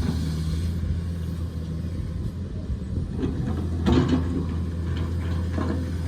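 Excavator's diesel engine running steadily, with a few knocks and clanks over it, the loudest about four seconds in.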